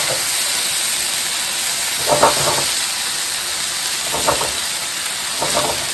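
Chicken cartilage and diced eggplant sizzling in oil in a frying pan over high heat, a steady hiss. A wooden spatula stirs and scrapes through the food in short strokes about two, four and five and a half seconds in.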